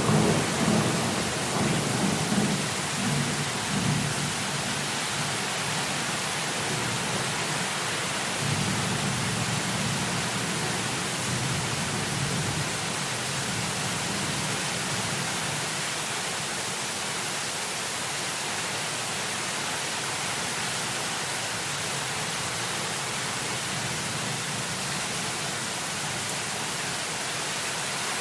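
Steady heavy rain hiss with rolling thunder: a low rumble dies away over the first few seconds, and another rolls in about eight seconds in and fades, leaving the even rain.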